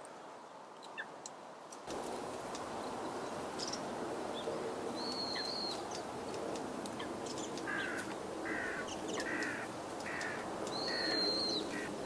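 Wild birds calling. There are two drawn-out thin high notes, about five and eleven seconds in, and a run of six evenly spaced lower calls over the last four seconds. Behind them is steady outdoor background noise that comes up about two seconds in.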